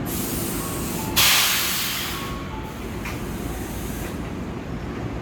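Tobu 8000 series electric train standing at the platform, letting out a sudden loud burst of compressed-air hiss about a second in that fades over the next second or so, over a steady lower hiss and rumble.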